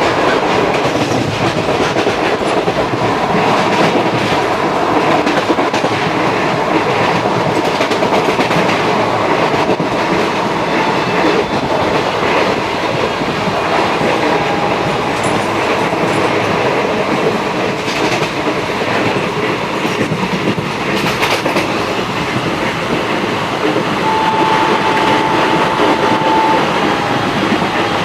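Express passenger train running at speed: a steady, loud rumble of wheels on the rails with clickety-clack over the rail joints. A thin steady tone sounds for a couple of seconds near the end.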